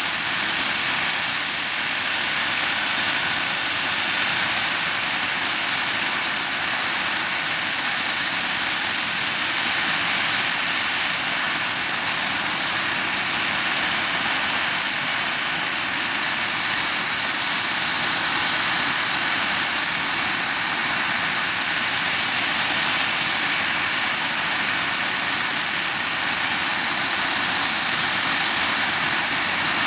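Hawker Siddeley Nimrod's Rolls-Royce Spey turbofan jet engines running steadily on the ground, a rushing roar with a steady high-pitched whine over it.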